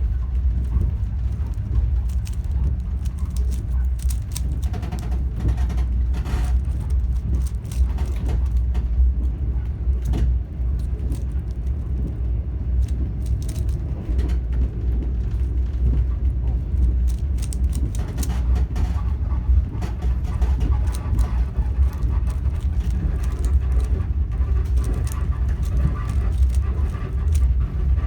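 Steady low rumble of a moving train heard from inside the carriage, with quick, irregular clicking of a Rubik's cube being turned by hand.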